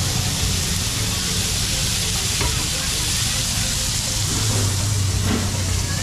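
Paneer cubes sizzling in a hot iron wok over a gas burner: a steady frying hiss, with a low hum underneath that grows a little louder near the end.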